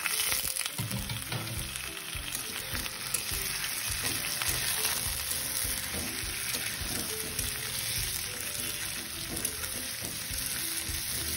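Potatoes frying in hot oil with browned onions in a wok, sizzling steadily while a metal spatula stirs and scrapes them around the pan with frequent short scraping strokes.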